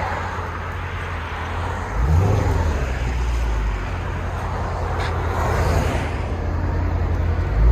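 2020 Dodge Challenger Scat Pack 392's 6.4-litre HEMI V8, its exhaust running through a Jones JFP flow pack in place of the factory mid mufflers, rumbling steadily with a brief throttle surge about two seconds in and another near the end.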